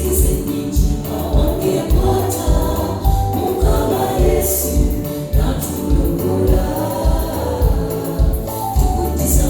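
Gospel choir singing with band accompaniment: a steady drum beat about twice a second, and cymbal crashes about halfway through and near the end.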